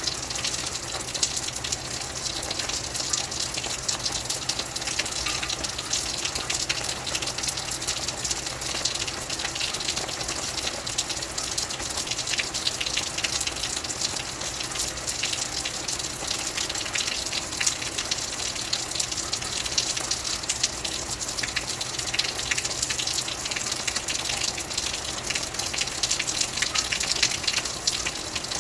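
Rain falling steadily: a dense, unbroken hiss of many small drop hits.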